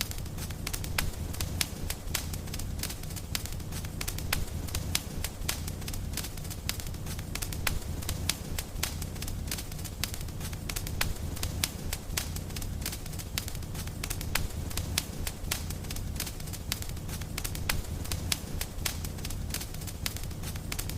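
Wood fire in a fireplace crackling, with many sharp pops in quick succession over a steady low rumble of the flames.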